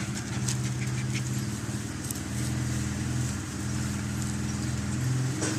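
Yamaha Raptor 660 ATV's single-cylinder four-stroke engine running at a steady idle, with a brief dip about three and a half seconds in.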